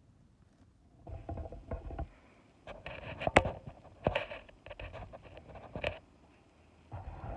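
Irregular bursts of rustling and handling noise with sharp clicks and knocks, after about a second of near silence.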